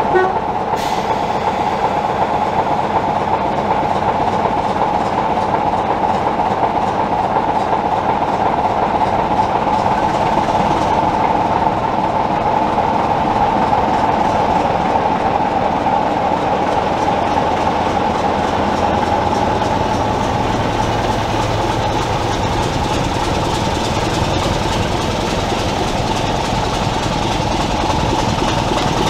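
A diesel-hauled heritage train running on the rails: a steady rolling noise with a constant hum near 1 kHz. About two-thirds of the way through, a deep engine rumble joins in.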